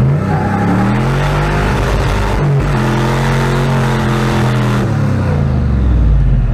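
Turbocharged pickup truck engine under hard acceleration from a launch, its pitch climbing. About two and a half seconds in the pitch drops at an upshift, then climbs again as the truck keeps pulling until the throttle comes off near the end.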